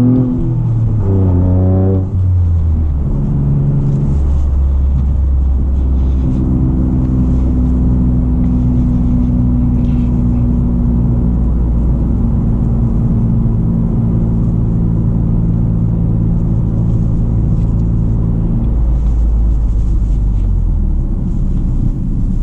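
A 2023 GR Corolla's turbocharged 1.6-litre three-cylinder engine, with an FI Exhaust catback, heard from inside the cabin. It rises through the revs for the first two seconds and changes gear. It then holds a steady note at cruise, and the note drops lower near the end.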